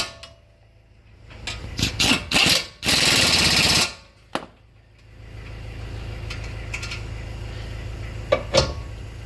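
Pneumatic impact wrench (air gun) hammering in a few short bursts, then one longer burst of about a second, its rapid rattle loud. A steady low hum follows, with a couple of sharp clicks near the end.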